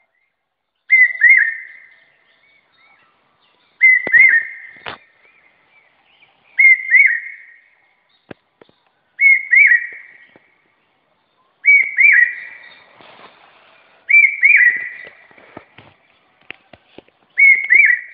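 A bird calling over and over, about every three seconds. Each call is two quick whistled notes that rise and fall, with a short trailing tail.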